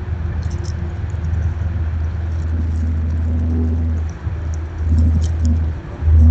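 Low, steady rumble of road traffic that dips briefly twice and swells loudest near the end, with faint high ticks over it.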